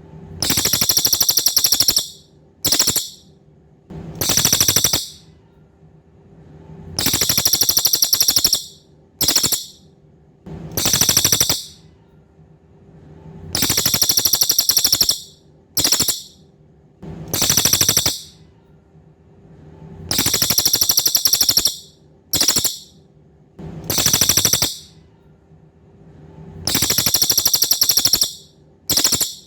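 Cililin songbird singing high, very rapid buzzing trills in bursts of about one second, repeated every one to two seconds, with shorter half-second trills in between. A faint steady hum runs underneath.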